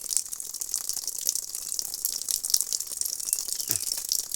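Running water: a steady hiss full of small crackles and splashes.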